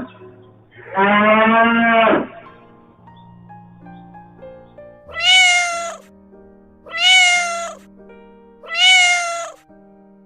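A domestic cat meowing three times, about two seconds apart, over quiet background music. About a second in, before the meows, comes one lower drawn-out animal call.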